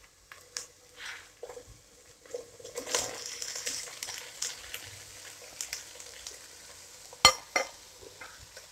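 Shredded boiled chicken tipped from a bowl into a pot of hot oil and fried onion paste, sizzling softly as it lands about three seconds in, with light spatula scrapes and a sharp knock on the pot about seven seconds in.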